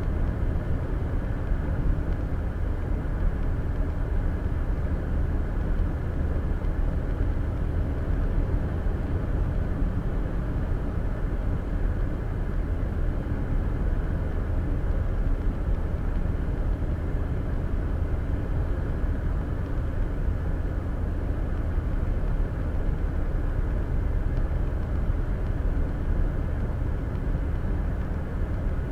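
Steady road noise of a car cruising on the interstate, heard inside the cabin: a low tyre and engine rumble with no distinct events.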